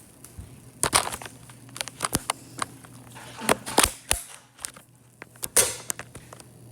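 Paper being handled and crinkled: irregular sharp crackles and short rustles, with a few louder crinkles.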